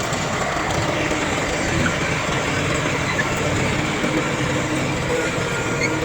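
Heavy diesel earthmoving machinery running steadily.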